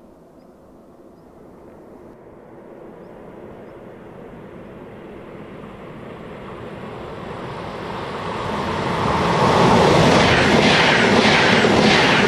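Regional push-pull train of double-deck coaches, pushed by an E 464 electric locomotive, approaching and passing close by. A rumble grows steadily louder, then from about ten seconds in comes a loud rush of wheels on rail with a regular clatter, about two beats a second.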